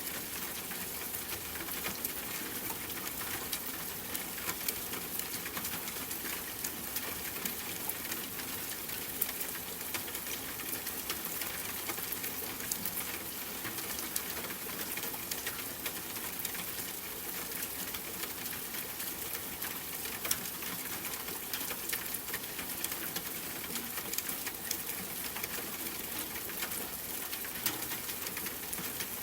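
Steady rain patter with many small, sharp drop ticks, over a low, even hum.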